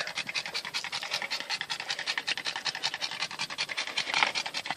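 A dog panting fast and without pause, overheated in about 100-degree heat.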